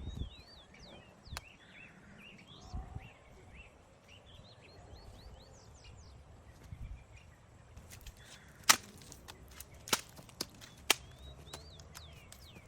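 Quiet outdoor ambience with high, short chirping calls, broken by a few sharp knocks or snaps about two-thirds of the way through.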